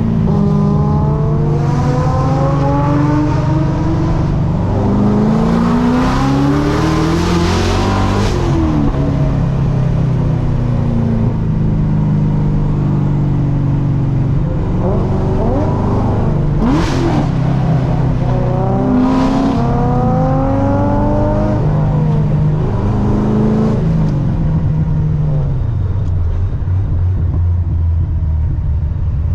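Supercharged Corvette C6 LS3 V8 pulled hard under full throttle, its pitch climbing and dropping back again and again through the gears, with short hissing bursts between pulls.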